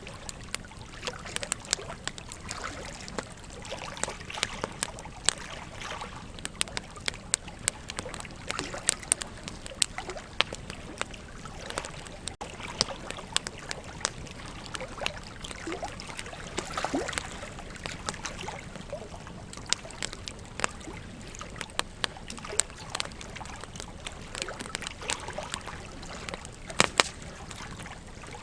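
Wood fire crackling, with irregular sharp pops and snaps, a few louder ones standing out, the loudest near the end, over a steady rush of flowing river water.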